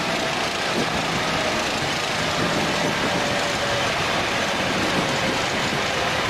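Steady rushing noise in the cockpit of a Boeing 737 MAX during its landing roll, with reverse thrust selected and speed brakes up. A faint whine in it slowly falls in pitch.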